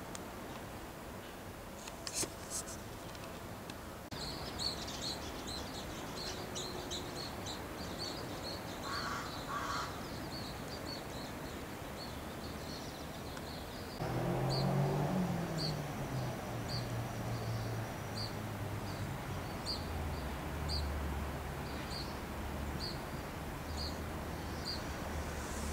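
A bird gives a short, high chirp over and over, coming in a few seconds in and settling to about two a second. A low drone joins underneath a little past halfway.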